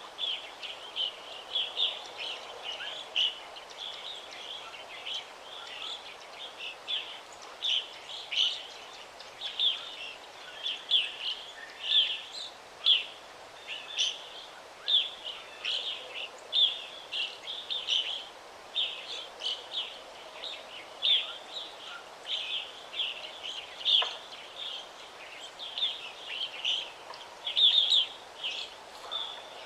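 Forest birds chirping continuously: many short, high chirps, several a second, over a faint steady background hiss.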